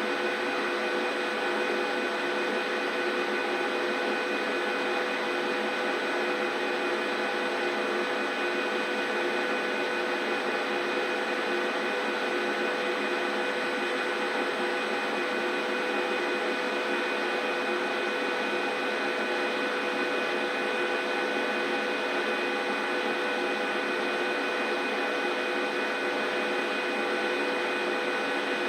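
Large 39 kg commercial washing machine running with a steady mechanical hum, several fixed whining tones held unchanged throughout.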